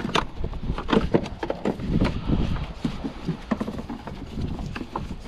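Irregular clicks and knocks of hand tools and parts being worked loose in a car's engine bay, a few a second, over a steady low rumble.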